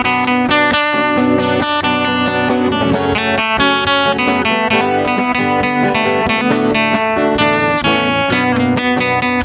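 Instrumental break of a sertanejo song: acoustic guitar plucked and strummed, with other backing instruments, no singing.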